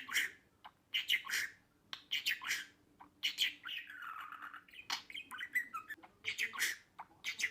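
Pet budgerigar chattering: a string of short, scratchy squawks and chirps with a longer warble about four seconds in.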